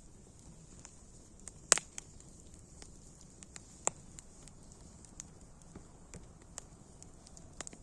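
Wood fire crackling: sharp pops at uneven intervals, the loudest about a second and a half in, over a faint steady hiss.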